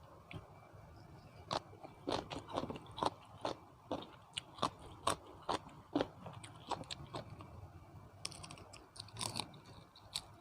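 A person chewing a mouthful of spicy seafood papaya salad close to the microphone. Crisp crunches come two or three a second, thin out after about seven seconds, then pick up briefly near the end.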